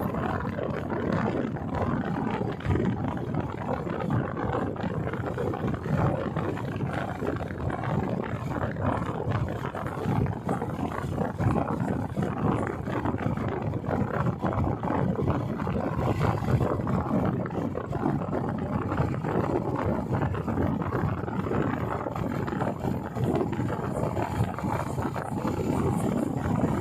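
Royal Enfield motorcycle riding at speed: the engine's steady rumble mixed with wind rushing and buffeting over the microphone.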